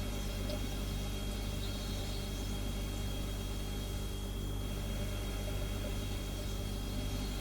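Refrigerator humming steadily: a low electrical hum with a thin, steady high-pitched tone above it and a soft hiss.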